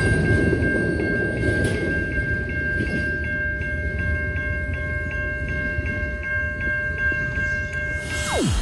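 Double-stack intermodal freight train's well cars rolling past on the rails: a steady low rumble, slowly easing as the tail end goes by, with a steady high ringing tone over it. Near the end the whole sound drops sharply in pitch and cuts off.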